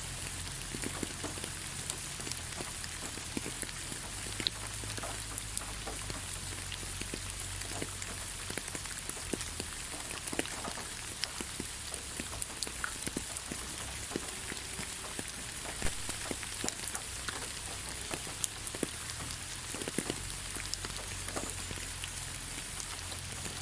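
Steady light rain falling, a soft hiss with many individual drops pattering close by.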